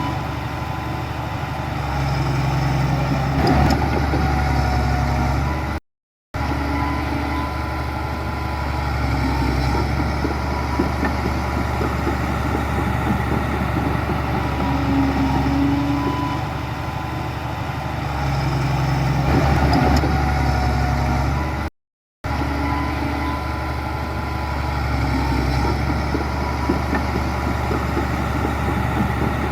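Heavy diesel engine of earthmoving machinery running steadily, with two brief complete dropouts to silence.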